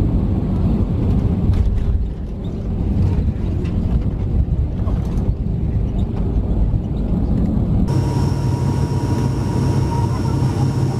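Airliner cabin noise heard beside the wing: a steady low rumble of the engines and airflow. About eight seconds in it changes abruptly to a different steady drone with a thin high whine over it.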